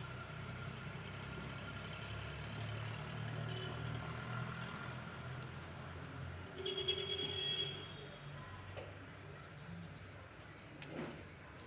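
Birds chirping over a steady low rumble, with a louder held pitched call lasting about a second a little past the middle.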